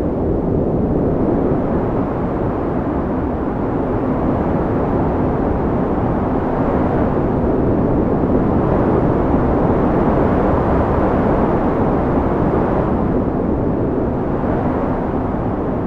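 Wind blowing in a steady low rush that swells in gusts, strongest about eight to eleven seconds in and again near the end.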